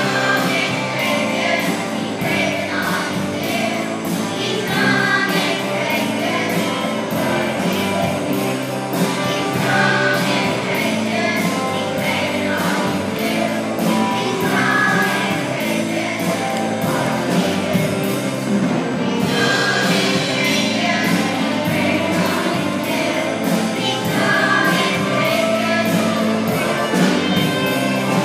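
Children's choir singing a gospel-style song over a steady beat.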